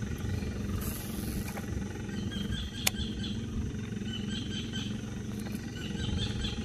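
Boat engine idling with a steady low rumble, and one sharp click a little under three seconds in.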